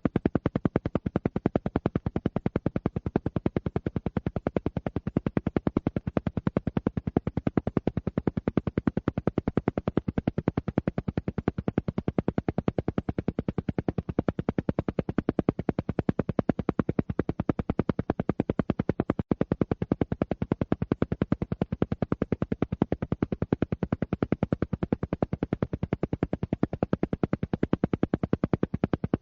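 Alpha-wave isochronic tone: a low tone pulsing on and off rapidly and evenly, about ten pulses a second, unchanging throughout.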